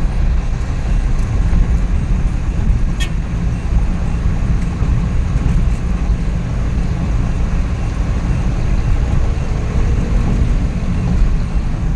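Suzuki Every DA64V van driving along, heard from inside the cabin: the freshly rebuilt K6A three-cylinder engine running steadily at cruise with road and tyre noise. A brief click about three seconds in.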